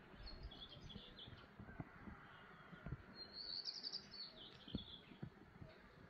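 A small bird singing high chirps, faint: a short chirping phrase in the first second, then a rapid trill about three seconds in that drops a little in pitch at its end. A faint low rumble with scattered soft thumps lies beneath.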